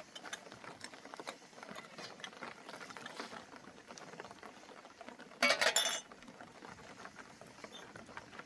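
Rain pattering, a dense scatter of small ticks, with one brief louder clatter about five and a half seconds in.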